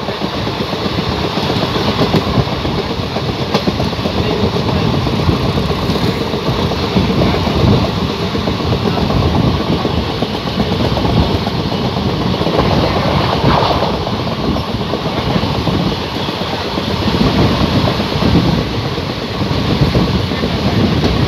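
Passenger train running along the track, heard from inside a coach at an open window: a steady noise of the wheels on the rails.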